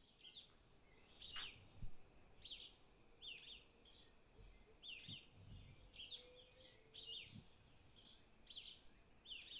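Faint birdsong: short, high chirps that sweep downward, repeated about once or twice a second.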